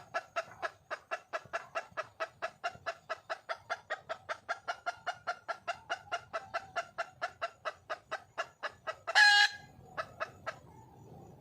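Red junglefowl hen clucking rapidly and evenly, about four to five clucks a second. Near the end comes one louder, longer squawk, then a few more clucks before the calling stops. This is the hen's call to a male.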